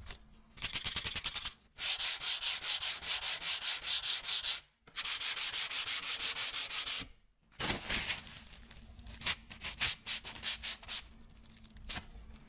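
Hand sanding of a dagger, rapid back-and-forth rubbing strokes about ten a second. There is a short run, two long steady runs with a brief pause between them, then scattered strokes that die away.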